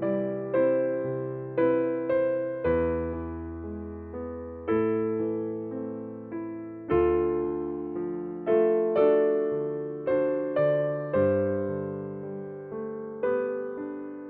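Slow, gentle piano music: chords and single notes struck one after another, each fading away before the next.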